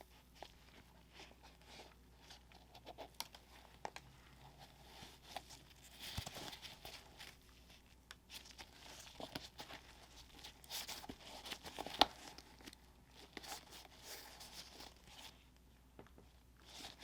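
Paper crinkling and crackling in irregular bursts as the packaging is handled, with one sharp click about twelve seconds in.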